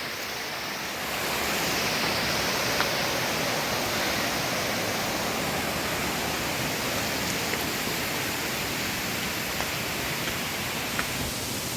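Waterfall: a steady rush of falling water, getting a little louder about a second in.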